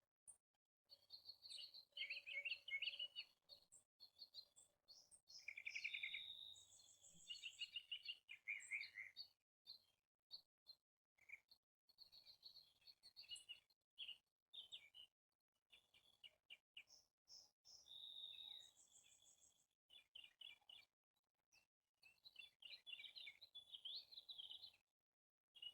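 Birds calling: a stream of short chirps and fast runs of repeated notes, faint overall.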